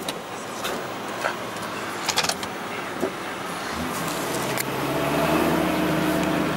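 2008 Ford Super Duty truck's 6.8L V10 engine pulling the truck along under way, with steady road noise and a few light clicks and rattles. About four seconds in, the engine note comes up and grows louder as the truck accelerates.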